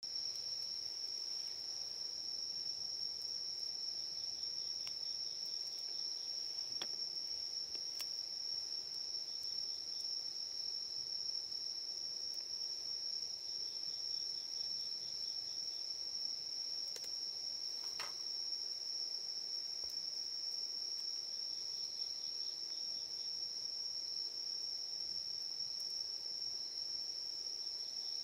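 Night insects calling: one steady, unbroken high-pitched trill, with a second, softer pulsing trill that comes and goes every few seconds. A few faint sharp clicks sound now and then.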